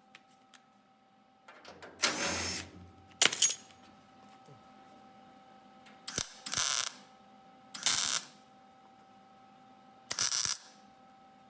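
Welder laying a series of short tack welds on the Beetle's body sheet metal: about six brief crackling bursts with pauses between them.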